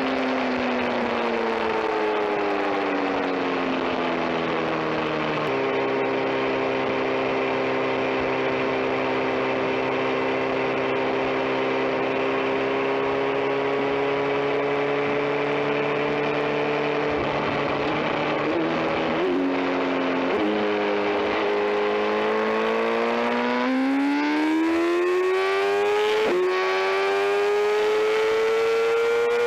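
2022 BMW S1000RR's inline-four engine heard while riding. Its pitch falls as the bike slows, jumps on a downshift about five seconds in and holds steady for a while. Near the end it climbs as the bike accelerates, dropping back on an upshift, all over steady wind rush.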